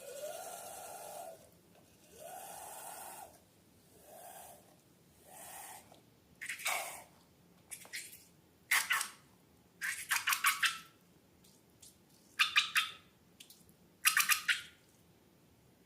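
Air squealing out of a balloon's neck in four pitched bursts, followed by clusters of sharp, wet crackles and clicks from slime being squeezed and handled.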